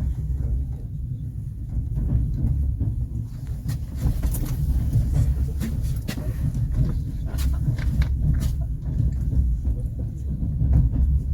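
Steady low rumble of a passenger railway carriage, with scattered sharp clicks and knocks from the running gear and car body.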